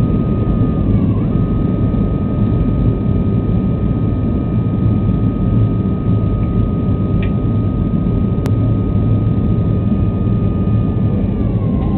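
Cabin noise of a Boeing 737-300 airliner on approach: the steady rumble of its CFM56 turbofan engines and airflow, with a steady high engine whine that drops slightly in pitch near the end. A single sharp click about two thirds of the way through.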